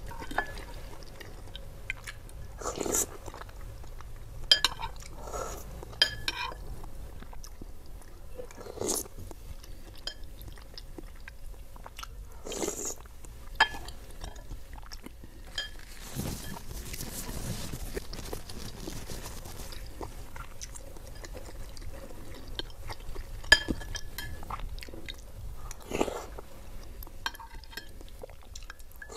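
Close-miked chewing of lontong sayur, with a metal spoon and fork clinking and scraping against a glass bowl in sharp clicks, a few of them loud.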